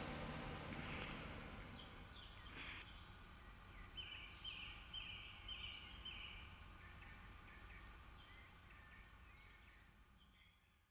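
Outdoor field ambience with birds calling: a run of about five short repeated chirps, roughly two a second, a little before the middle, and other scattered calls over a low steady rumble. The whole sound fades out.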